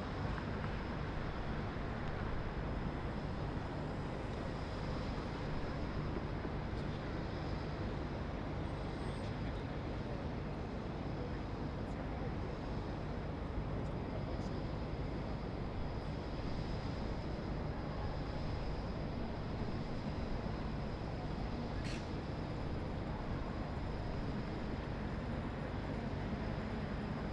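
Steady city traffic hum heard from high above a downtown river: an even low rumble of distant cars with a faint high whine over it, and one brief click about two-thirds of the way through.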